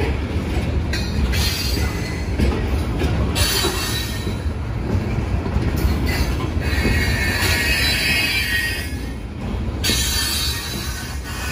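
Freight train hopper cars rolling past on the rails with a steady low rumble of wheels on track. A high-pitched wheel squeal comes in about three seconds in, grows strongest late on, and drops away shortly before the end.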